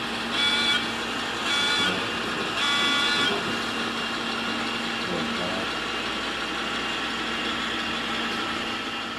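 Locomotive horn sounding three short blasts in the first three seconds, then the steady running of the locomotive.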